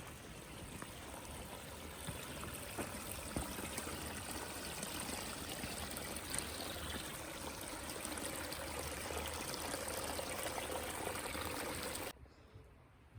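Running water trickling steadily, like a small stream, cutting off abruptly about twelve seconds in.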